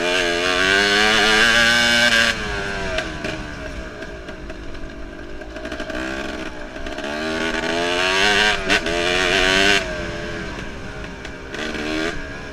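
Enduro motorcycle engine being ridden hard: it revs up to high throttle twice, once at the start and again past the middle, each time cutting off abruptly. Between the two, it runs lower and unevenly, the pitch wavering as the throttle opens and closes.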